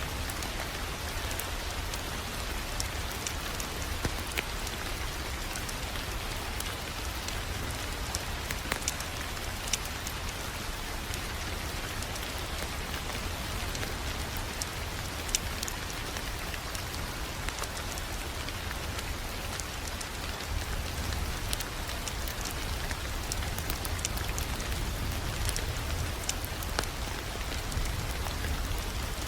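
Wood fire crackling: irregular sharp pops and snaps scattered over a steady hiss and a low rumble.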